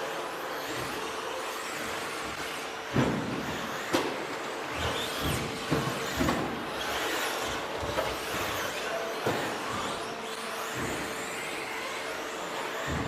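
Electric RC stadium trucks with 13.5-turn brushless motors racing on a dirt track: the motors whine, rising and falling in pitch as the trucks speed up and slow down, with a sharp thud every second or two.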